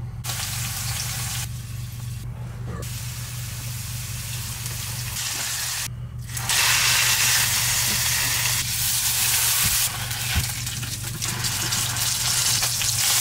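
Food frying in hot oil: breaded walleye deep-frying in a saucepan and a ribeye steak searing in a cast iron skillet. The steady sizzle jumps in level at several abrupt cuts and is loudest in the second half, over a steady low hum.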